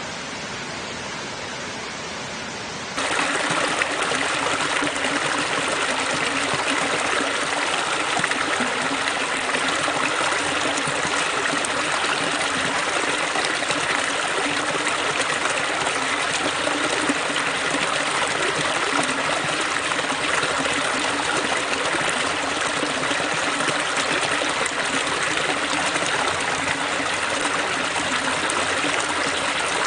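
Water rushing steadily over rocks, a continuous even splashing. About three seconds in it abruptly becomes louder and brighter, like a cut to a closer or different take, then carries on unchanged.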